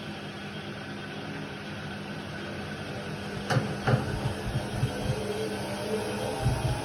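Indesit WIDL 106 washer-dryer running with a steady motor hum. About halfway through come two sharp clicks, then irregular low thumps.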